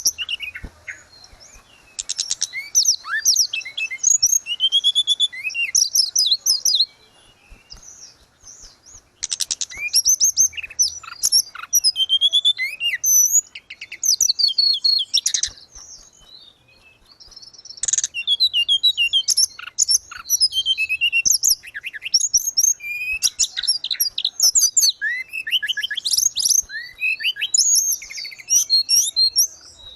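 Tledekan gunung songbird singing in full voice: fast runs of high, varied whistles, chirps and trills, in bursts with short pauses between phrases.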